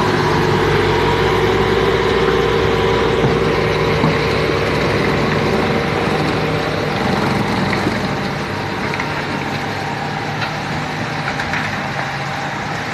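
Truck engine running steadily, getting gradually quieter over the second half.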